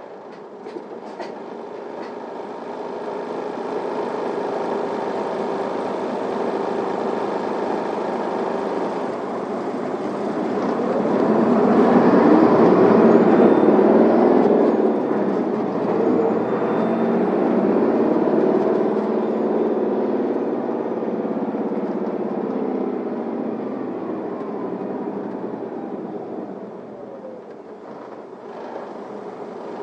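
An Isuzu Erga city bus's diesel engine and running noise heard from inside the cabin. It pulls away and builds to its loudest about twelve seconds in, then eases off as the bus slows near the end. A few light clicks come right at the start.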